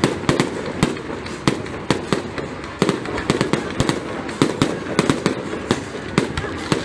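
Fireworks going off: a rapid, irregular run of sharp bangs and cracks, several a second, over a continuous hiss.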